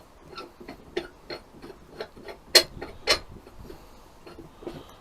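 Light clicks and taps of metal parts as a threaded attachment is screwed by hand into a 152 mm core drill bit, irregular at a few a second, with two louder knocks about halfway through.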